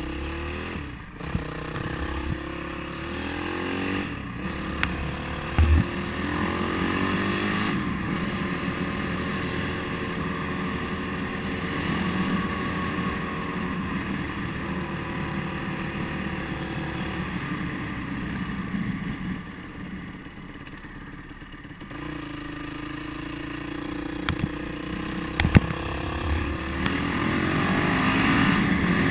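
Motorcycle engine running under way, its pitch rising and falling as it speeds up and shifts, easing off for a few seconds about two-thirds through before picking up again near the end. A few sharp knocks cut in, the loudest near the end.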